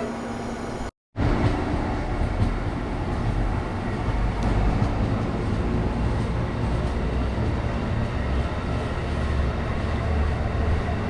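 A train running past close by: a steady rumble of wheels on rail with a rush of noise. The sound cuts out completely for a moment about a second in, then the rumble carries on.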